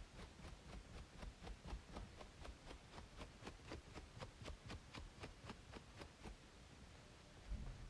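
Quick, repeated scratching strokes on a braided scalp, about three or four a second, over a faint steady white-noise hiss. The scratching stops about six seconds in, and a low thump follows near the end.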